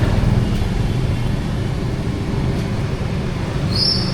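A motor vehicle's engine runs close by, a steady low rumble. A high, thin tone begins near the end.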